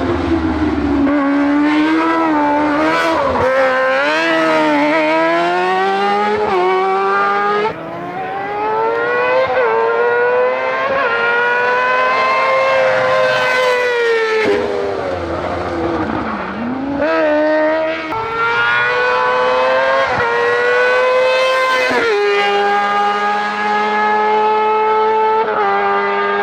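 Competition car engine at full throttle, its pitch repeatedly climbing under hard acceleration and dropping on gear changes and lift-offs, with abrupt breaks where the sound changes suddenly.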